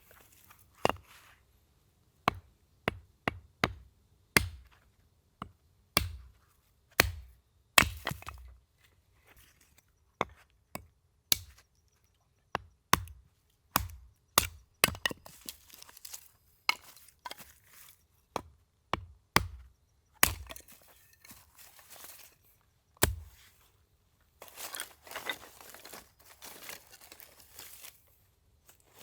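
Firewood being chopped: a long string of sharp, separate chops at an uneven pace, with a few seconds of rustling between strokes near the end.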